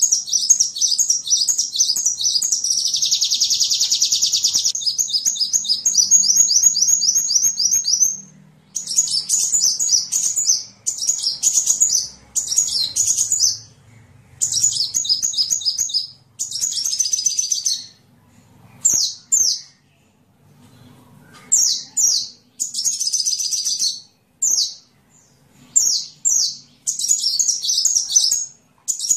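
Sunbird ('kolibri') song: fast, high-pitched chirping trills. They run without a break for about the first eight seconds, with a buzzy rattle about three seconds in, then come as short phrases separated by brief pauses.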